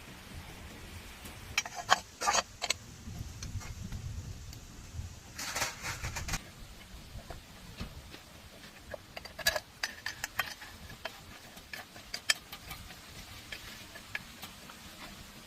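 Irregular clinks and knocks of metal tools and parts being handled during hands-on repair work, with clusters about two seconds in and around six seconds, and single sharper clinks later. No engine is running.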